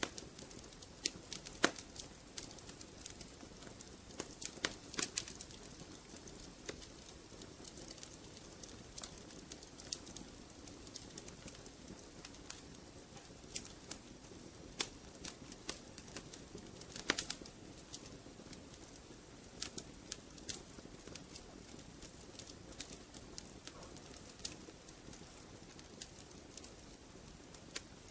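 Wood fire crackling in a fireplace: irregular sharp pops and snaps over a steady soft rush of burning.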